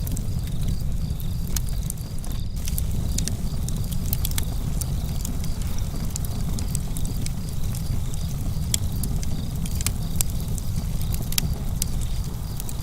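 Campfire crackling: frequent, irregular sharp pops and snaps of burning wood over a steady low rumble.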